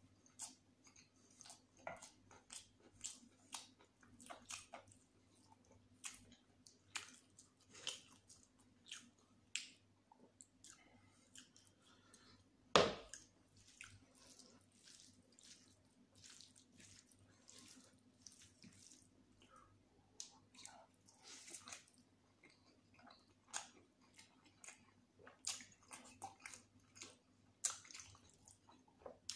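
Close-up wet chewing and mouth smacks of a person eating chicken biryani with raita and gravy: irregular short clicks and squelches, with one louder smack about halfway through.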